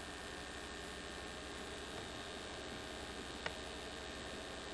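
Steady low electrical hum and hiss of an old VHS camcorder recording, with one faint click about three and a half seconds in.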